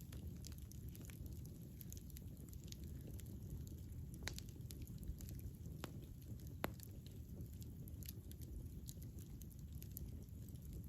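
Campfire burning with a low steady rumble and scattered sharp crackles and pops, three sharper pops in the middle.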